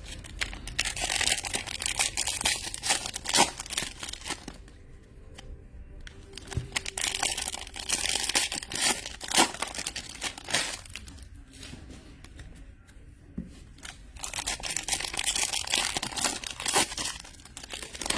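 Trading card pack wrappers being torn open and crinkled by hand, in three bouts with short pauses between, with sharp crackles and snaps in each.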